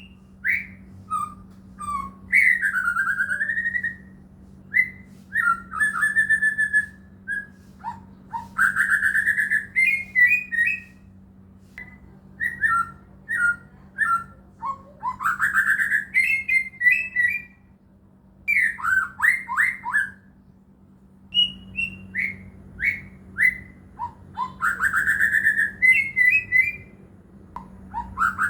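White-rumped shama (murai batu) singing: a string of varied, clear whistled phrases, with rising and falling glides and fast repeated trilled notes broken by short pauses. A faint steady low hum runs underneath.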